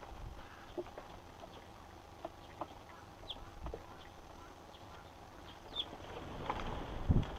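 Scattered short chirps from Eurasian tree sparrows, a few brief high calls several seconds apart. A low thump near the end is the loudest sound.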